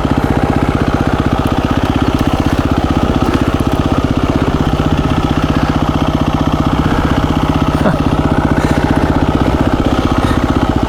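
2017 KTM 350 EXC-F's single-cylinder four-stroke engine running steadily at low revs, its pitch level.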